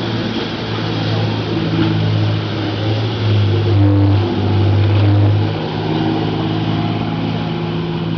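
A boat's engine running, a low steady drone over a steady hiss, getting louder and dropping slightly in pitch for a couple of seconds in the middle.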